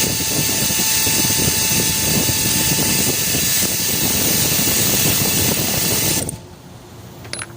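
Loud, steady mechanical running noise with a strong hiss, stopping abruptly about six seconds in; a few faint clicks follow.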